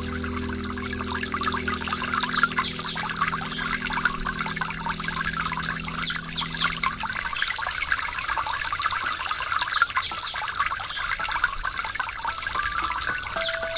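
Falling water from a waterfall, a steady splashing noise. Held low notes of soft background music die away about halfway through, and a new note enters near the end.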